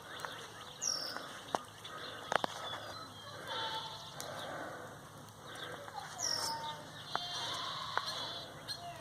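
Birds calling outdoors: repeated short high calls that drop in pitch, with other brief calls and a few sharp clicks in between.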